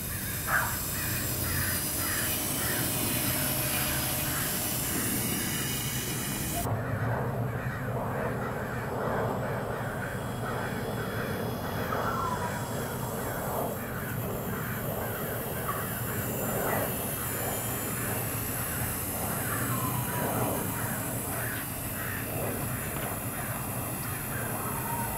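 Birds calling outdoors: a quick series of short repeated calls, with a few longer calls that fall in pitch later on. The background hiss drops away suddenly about seven seconds in.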